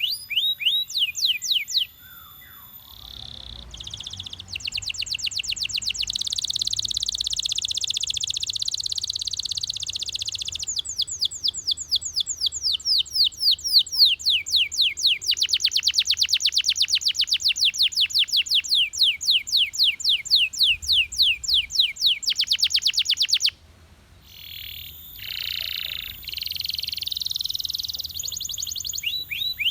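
Belgian canary singing: long, fast trills of rapidly repeated downward-sweeping high notes, broken by short pauses about two seconds in and again near the three-quarter mark.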